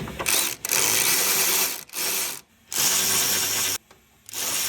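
A cordless power tool driving in engine mount bolts, running in about four short bursts with brief pauses between them as the bolts are tightened.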